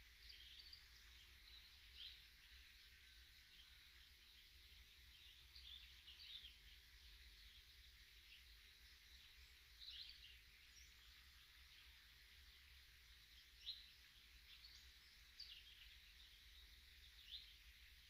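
Faint, distant songbirds chirping in short, scattered high calls every second or two, over a steady hiss.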